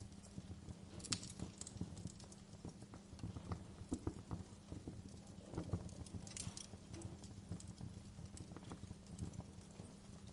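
Wood fire in a fireplace crackling: irregular small snaps and pops, a few sharper ones about a second in and around six seconds, over a steady low hum.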